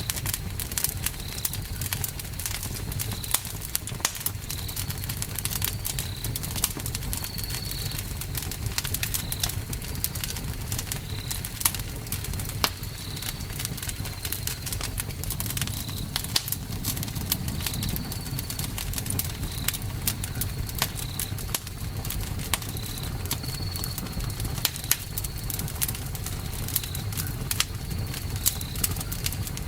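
Campfire burning: wood crackling with frequent sharp snaps and pops over a low steady rumble. A short high chirp repeats about every second and a half.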